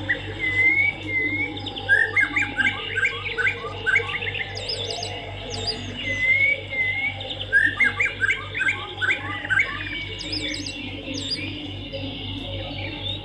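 Swiftlet calls: a wavering whistle followed by a burst of rapid twittering chirps, the same sequence repeating about every six seconds, typical of a looped swiftlet lure-call recording played from speakers to attract the birds. A steady low hum runs underneath.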